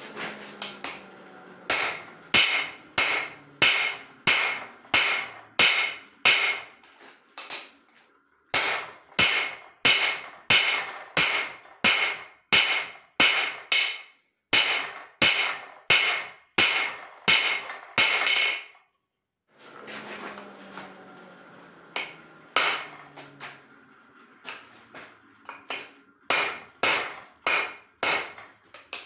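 Hand hammer striking steel on an anvil in steady runs of about two blows a second, each blow ringing briefly. The blows pause about 8 seconds in and again near 19 seconds, then come lighter near the end.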